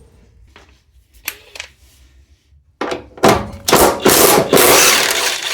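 Impact wrench rattling on a suspension bolt. It starts in a few short bursts nearly three seconds in, then runs continuously for about a second and a half, and the bolt comes undone without a fight.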